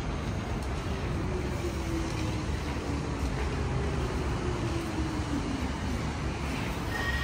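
Hanshin electric commuter train running over a low, steady rumble, its motor whine falling slowly in pitch over several seconds as the train slows. A short high squeal comes near the end.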